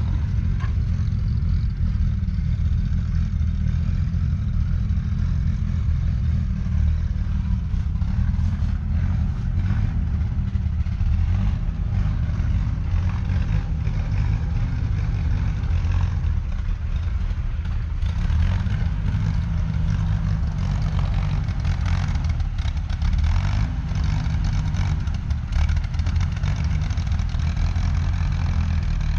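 1975 Massey Ferguson 168's 3.9-litre four-cylinder diesel engine running steadily, a low even rumble.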